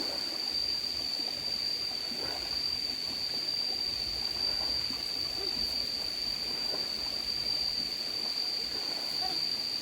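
Water running in a stream, with a steady high-pitched whine held unbroken over it and a few faint short calls.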